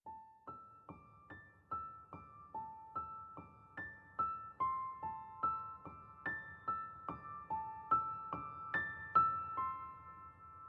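Background solo piano music: a gentle melody of single struck notes, about two or three a second, with the last notes left ringing near the end.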